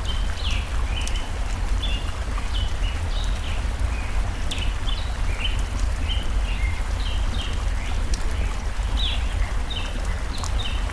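Birds chirping in quick short high notes, several a second, over the steady rush of a stream with a deep low rumble, and a few faint crackles from a campfire.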